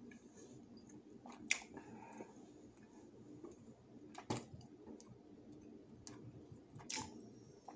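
A person chewing food quietly with the mouth near the microphone. Three sharp clicks stand out: one about a second and a half in, one past four seconds, and one near the end.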